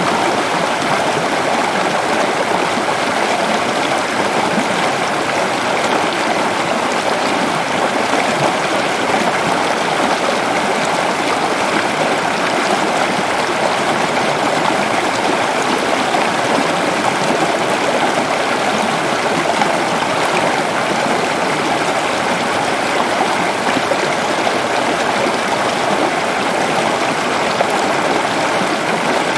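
Waterfall rushing steadily, a dense, even roar of falling water with no change.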